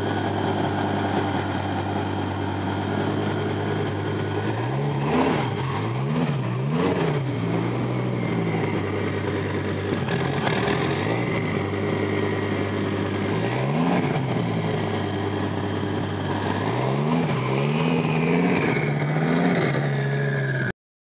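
Twin-turbocharged 1997 Dodge Viper GTS 8.0-litre V10 idling steadily, then blipped about seven times, each rev rising and falling quickly in pitch before it settles back to idle.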